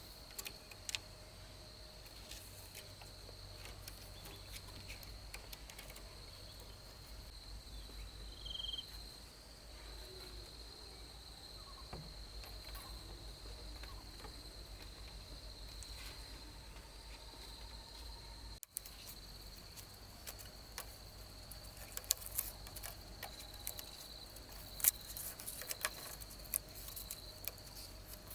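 Insects chirring steadily in one high, unbroken band, with scattered sharp clicks and taps in the last part.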